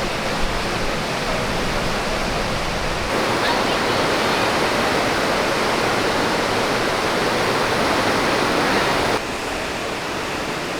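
Steady rushing of sea water and wind past the moving cruise ship, stepping louder about three seconds in and dropping back near the end.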